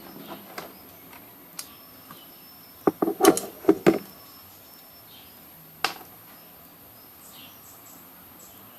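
Sharp knocks and clicks: a few light ones, then a quick cluster of about six louder knocks about three seconds in, and one more near six seconds. Faint chirping of insects runs underneath.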